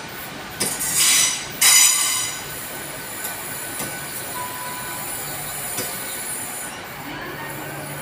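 GWR Hitachi Intercity Express Train arriving slowly, its wheels squealing loudly in two bursts in the first couple of seconds. It then rolls on with a quieter, steady running noise.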